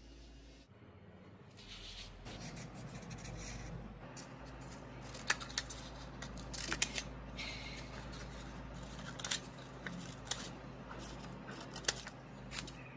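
Hand craft work on a paper or card model: rustling, scraping and cutting sounds with sharp clicks scattered through, the loudest a little past the middle.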